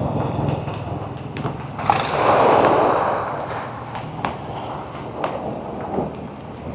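Storm wind rushing and buffeting the microphone, swelling into a loud surge about two seconds in, with a few sharp knocks.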